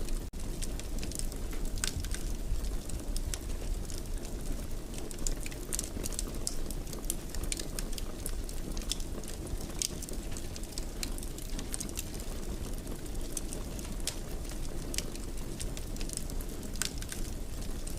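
Wood fire burning: a steady low rumble of flames with frequent irregular crackles and pops.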